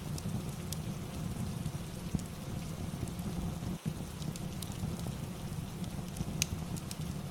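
Steady rain ambience with a low rumble underneath, and scattered sharp crackles and pops from a fireplace.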